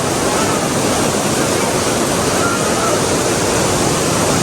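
Very heavy rain pouring down in a steady, loud hiss.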